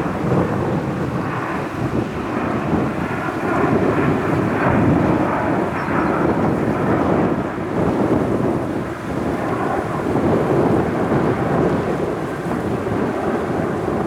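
Jet airliner's engines at high power, a loud, steady, deep rumble, as of a heavy jet taking off and climbing out.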